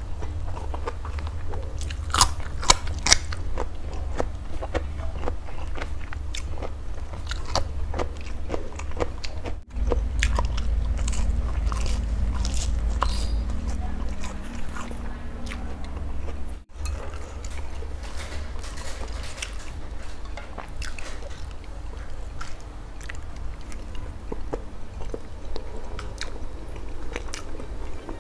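Close-up eating sounds: crisp crunches of biting into a raw green vegetable stalk, loudest about two to three seconds in, then steady wet chewing. The sound briefly cuts out twice.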